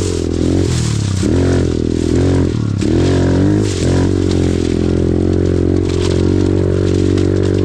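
Off-road vehicle engine revving up and back down in a few quick swells, then running at a steady speed for the rest of the time.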